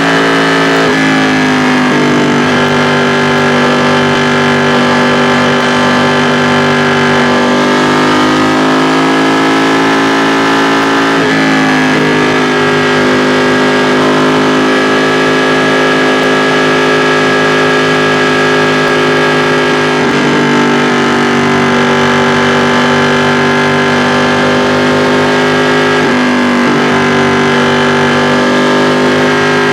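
2016 Ducati XDiavel S's 1262 cc Testastretta L-twin engine running under way, loud and steady. Its pitch climbs and falls several times, dropping suddenly about a second in, around the middle and near the end as it changes gear.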